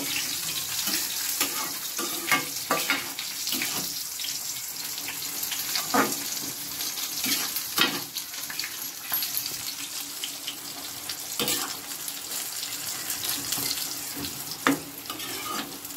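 Chopped radish greens sizzling and steaming in a steel kadai as the water they released cooks off, while a steel spatula stirs them, scraping and clinking sharply against the pan a few times.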